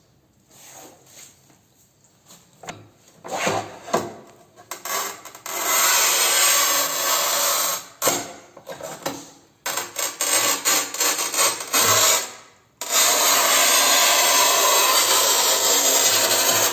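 Hard tool scraping and rasping over tile in repeated strokes, from tiling work. It starts with a few short scrapes, then longer sustained stretches, and a long continuous scrape near the end.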